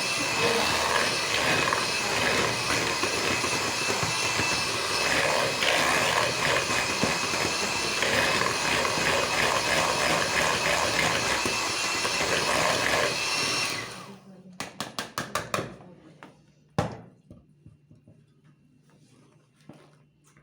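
Electric mixer whipping chantilly cream until it holds together, running steadily for about fourteen seconds and then switched off. A quick run of sharp taps follows, then one louder knock.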